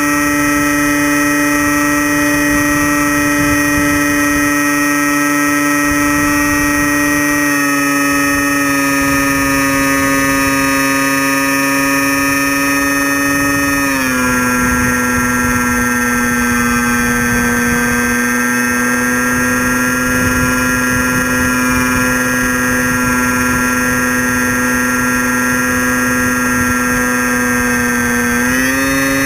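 Electric motor and propeller of a radio-controlled foam plane whining steadily in flight. The pitch steps down slightly about seven seconds in and again about halfway through as the throttle is eased, then rises back just before the end.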